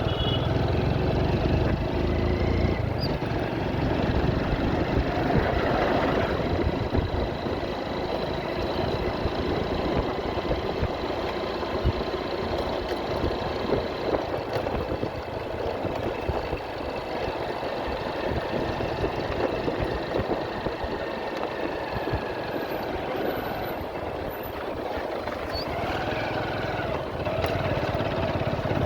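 Motorcycle engine running steadily during a road ride, with road noise around it.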